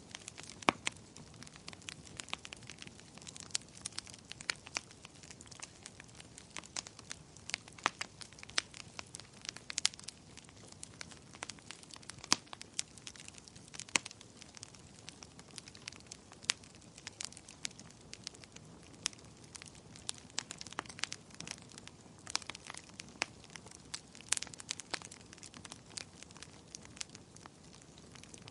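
Wood fire burning in a fireplace, crackling with frequent irregular sharp pops over a low, steady hiss.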